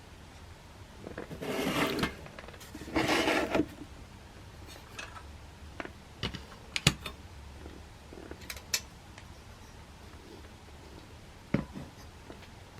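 Handling of a small metal pressure stove and its parts: two short rustling, scraping noises, then a scatter of light clicks and knocks of metal being set down and fitted.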